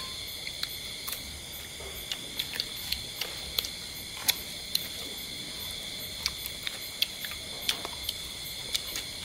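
People eating grilled duck with their hands: irregular wet clicks of chewing and lip-smacking, several a second. A steady high-pitched drone runs underneath.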